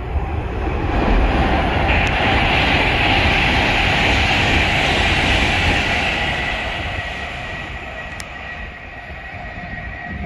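A train passing through the station at speed: a rushing noise of wheels on rail that swells about a second in, holds for several seconds, then fades away, with one sharp click near the end.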